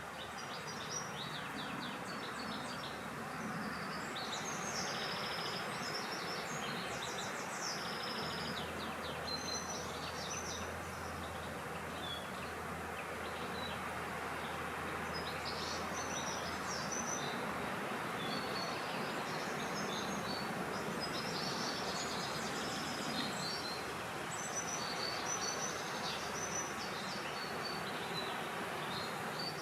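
Many small birds chirping and twittering over a steady rushing background of wind. A faint low drone sits under it for several seconds in the middle.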